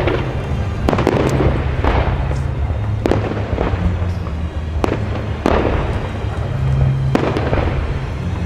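Aerial firework shells bursting in a professional display, a sharp bang about every second, each trailing off in an echo.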